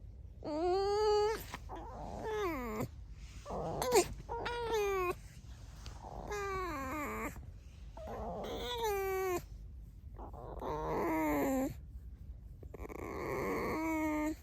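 Pet fox squeaking: a run of about seven whiny, high-pitched calls, each about a second long, with a quavering pitch and short pauses between them.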